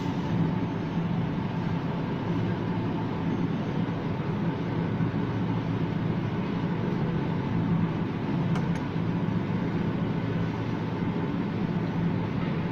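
Steady low hum with a rushing background noise inside a moving Ferris wheel cabin, with one faint click about eight and a half seconds in.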